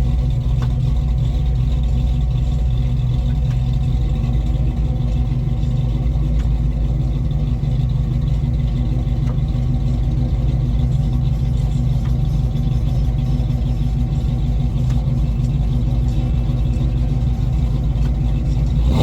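A car engine idling steadily, a loud, even low rumble with no revving.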